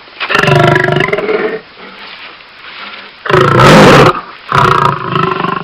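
Lion roaring: a long roar, a stretch of low grunting, then two more roars in quick succession near the end.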